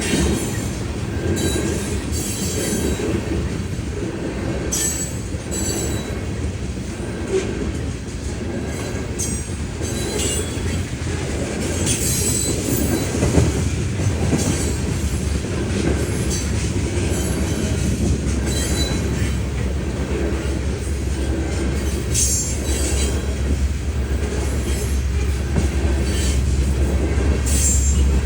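Freight train of ethanol tank cars rolling past, with steady wheel rumble and intermittent high-pitched wheel squeal. A deeper rumble builds over the last ten seconds.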